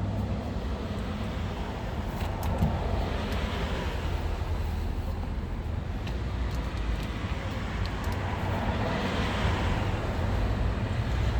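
Road traffic going by: a steady low rumble with two vehicles swelling and fading, about three and nine seconds in, and a few faint clicks.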